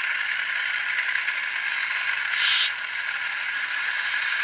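Recorded diesel prime-mover sound from an N-scale Tier 4 GEVO's ESU LokSound Select decoder, played through the model's small speaker, running up under drive hold while the locomotive stands still. A brief burst of hiss comes about two and a half seconds in.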